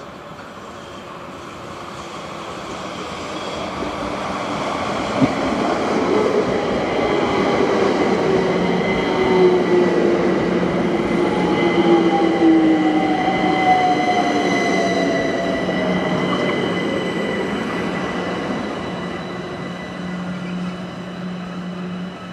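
Electric multiple-unit passenger train running along the platform. Its rumble builds over several seconds, peaks, then eases off, while its motor whines slowly fall in pitch. A steady low hum comes in about two-thirds of the way through.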